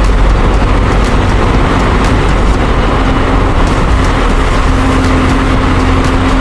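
Steady, loud rumble of a running vehicle engine with road-noise hiss.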